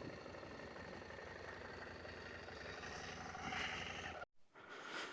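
Motorcycle engine running faintly and steadily, with a hiss swelling about three seconds in; the sound cuts off abruptly a little after four seconds in.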